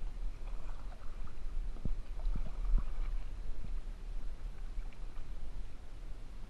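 Kayak paddling on a river: paddle strokes and water noise, with a few sharp knocks about two to three seconds in, over a steady low rumble on the microphone.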